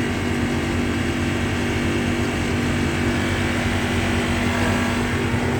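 Mitsubishi packaged air conditioner's outdoor unit running with its newly replaced condenser fan motor: a steady hum with several held tones over a fan's rushing air, running evenly, which shows the new motor working properly.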